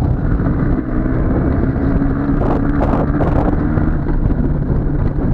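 IZh Jupiter motorcycle's two-stroke twin engine running steadily under way, with wind buffeting the microphone. A few brief rattles come through about halfway.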